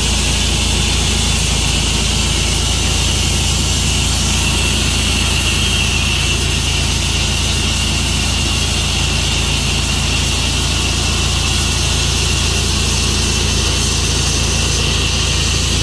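Portable sawmill running steadily: a loud, even engine hum with a constant high hiss over it.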